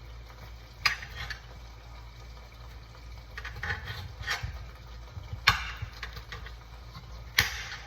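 A handful of separate knocks and clatters from kitchen utensils being handled on a counter or cutting board, the loudest two near the end, over a low steady hum.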